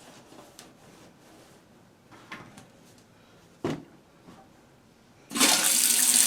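A few small knocks and clicks of handling, then a little over five seconds in a toilet fill valve starts with a sudden loud, steady hiss of water rushing into the tank as the supply is turned back on.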